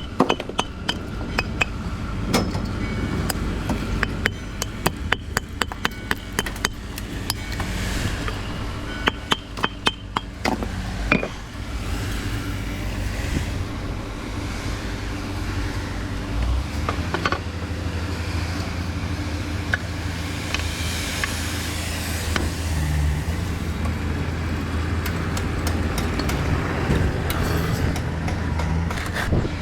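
Rapid, repeated sharp knocks like hammer blows for about the first ten seconds, over a running machine. From about sixteen seconds in, a steady low engine hum dominates.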